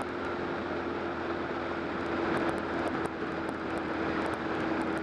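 BMW K1200R's inline-four engine running at a steady cruise, its note holding one even pitch under heavy wind and road noise.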